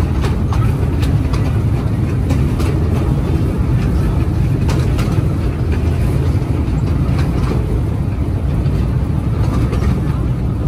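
Amusement-park ride train running, heard from on board: a steady low rumble with scattered sharp clicks of the wheels on the track.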